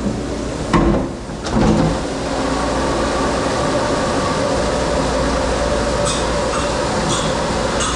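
Commercial dishwashing machine running with a steady rumble and hum, with dishes knocking about a second in and clinking together near the end.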